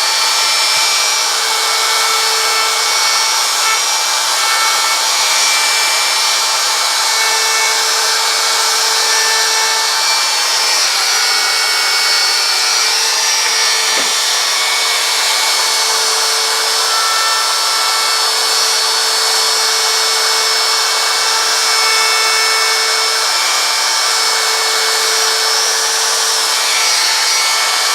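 Handheld router running steadily, its bit cutting grooves in a wooden sign to straighten the carved lines. A constant high whine over a dense hiss.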